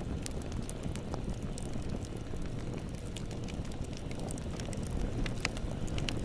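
Bonfire burning with a steady low rumble and scattered sharp crackles and pops, a few louder pops near the end.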